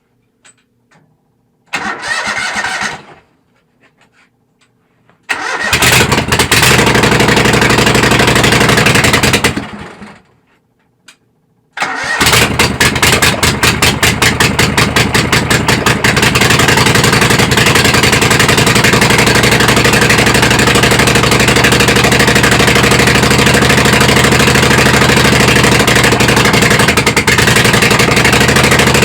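Kohler Command twin-cylinder engine being started: a short burst about two seconds in, then it runs for about four seconds and dies, then catches again about twelve seconds in and settles into a loud, steady run.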